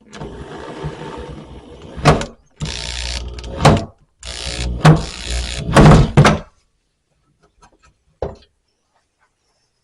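Screw being driven to lock a TV onto its wall-mount bracket: three short runs of noise broken by several loud sharp knocks of the metal bracket, then one last knock a couple of seconds later.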